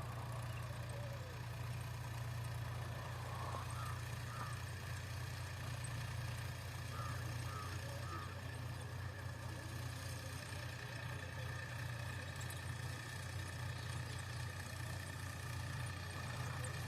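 Massey Ferguson 5245 4WD tractor's diesel engine running steadily while pulling a cultivator, a constant low drone with no change in speed.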